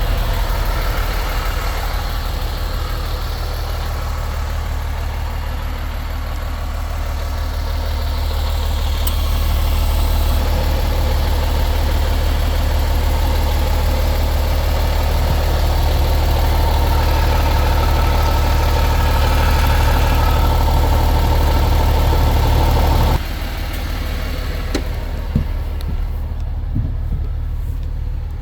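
MAN TGX 26.470's six-cylinder diesel engine running steadily at idle. About three quarters of the way through, the sound drops abruptly to a quieter, lower hum with a few faint clicks.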